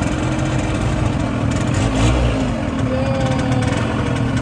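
Small motorcycle engine of a motorized passenger tricycle running steadily while under way, heard from inside the sidecar cab.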